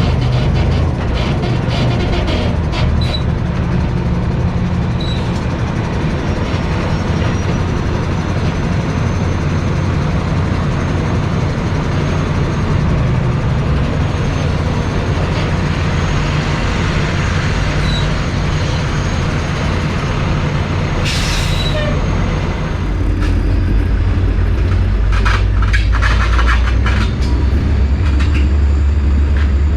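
Truck driving with a steady engine and road rumble. A short hiss comes about two-thirds of the way through, and the low rumble grows louder near the end.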